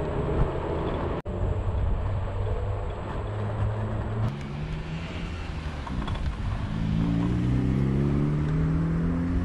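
Street traffic: a motor vehicle's engine rising steadily in pitch as it accelerates over the last few seconds.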